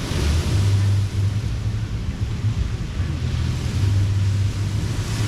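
Waves washing up a sandy beach, the surf swelling twice about three seconds apart, over a steady low rumble of wind on the microphone.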